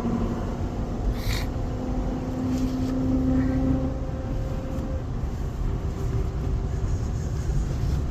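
Motor vehicle running: a steady low engine and road rumble with a held engine drone over the first few seconds, and one short click about a second in.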